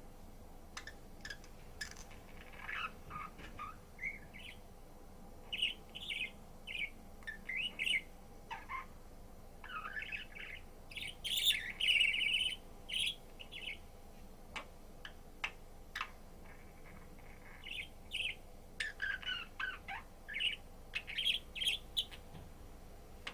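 A budgerigar chirping and warbling in many short, quick calls, busiest about halfway through and again near the end, with a few sharp clicks between the calls.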